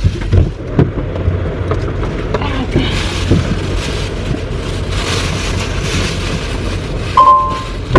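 Steady low rumble of an idling truck engine, with a few short knocks and clicks, and a brief beep near the end.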